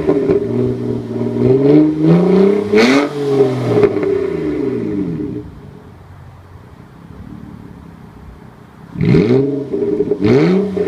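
Nissan VQ35DE 3.5-litre V6 revving through an open exhaust cutout, bypassing the muffler. The revs climb and fall over several seconds, settle to a quieter idle, then come two quick sharp blips of the throttle near the end.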